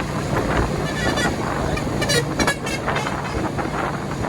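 Road noise from a motorcycle riding in highway traffic: a steady low rumble of engines and tyres. A few brief high-pitched sounds, such as horn toots, rise above it about a second in and again around two seconds in.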